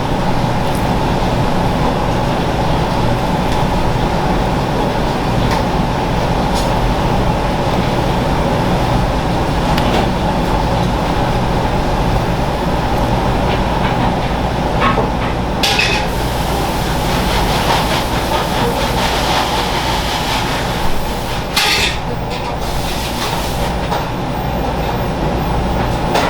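Steady, loud mechanical rumble with scattered sharp clicks and knocks, the sharpest a little past the middle and again later on.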